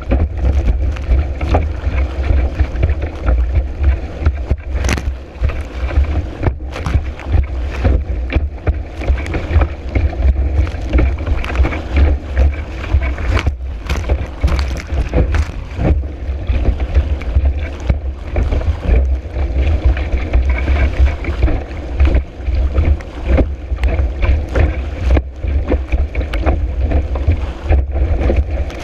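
Strong wind buffeting the board camera's microphone in a deep, unsteady rumble, over water rushing and slapping against the board as it rides across choppy water. There are irregular sharp splash hits.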